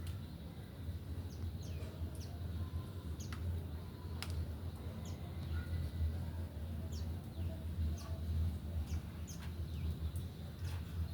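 White-eyes giving short, high chirps, scattered one after another, each sliding down in pitch. A steady low hum runs underneath.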